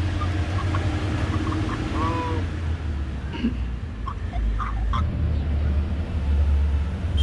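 Steady low rumble of a road vehicle's engine and traffic, with faint scattered voices and a few brief higher tones.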